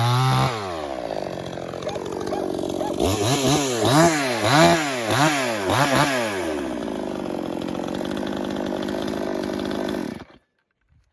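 Pinkway 63cc gas chainsaw at full throttle, dropping off to a lower note about half a second in, then revved up and down several times in quick succession, idling, and cutting off suddenly when the engine is switched off near the end.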